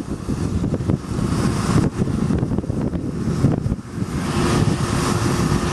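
Wind buffeting the microphone on a golf cart moving at about 20 mph, an uneven low rumble over the cart's driving noise. A faint steady hum joins about four seconds in.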